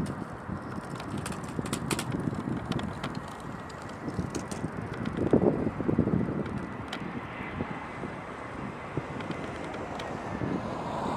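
Wind buffeting the microphone in gusts, with scattered sharp clicks, over faint distant jet airliner noise carrying a thin steady whine.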